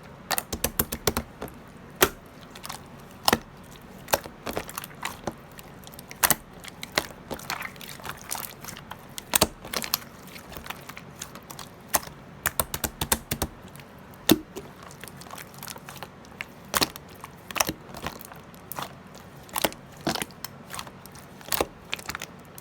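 Sharp clicks and taps at irregular intervals, some single and some in quick runs, the busiest run about halfway through.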